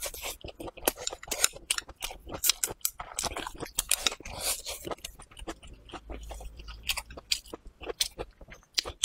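Close-miked chewing of a mouthful of rice and braised pork: a dense, irregular run of sharp wet mouth clicks and smacks.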